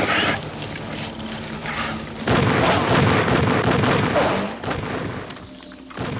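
A loud boom that sets in suddenly about two seconds in, rumbles for a couple of seconds and fades, over background score music.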